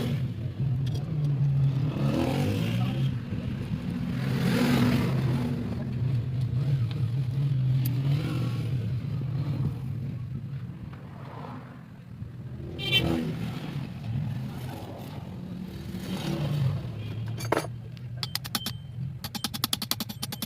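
A motor engine running steadily with a low hum, swelling and fading in loudness; rapid clicking near the end.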